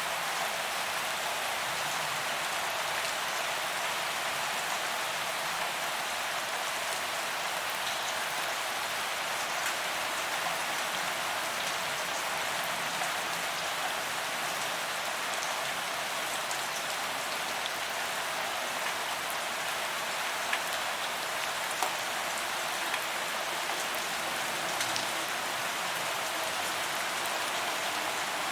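Steady rain falling on a paved promenade, a continuous patter of drops hitting pavement, with a few individual drop ticks standing out.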